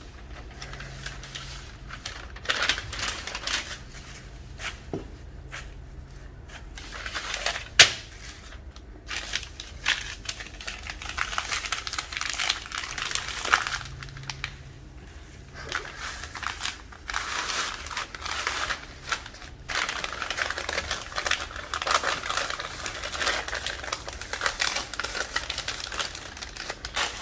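Paper crinkling and rustling in irregular bursts as bunches of mint are rolled up in it, with one sharp click about eight seconds in.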